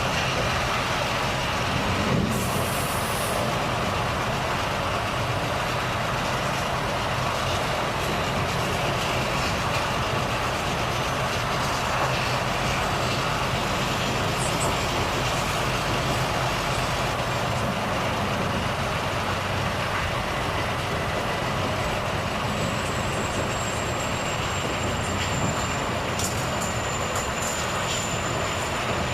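Volvo FH truck's diesel engine running steadily under way, with tyre and road noise. A short hiss comes about two seconds in, and a faint high whistle sounds in the last few seconds.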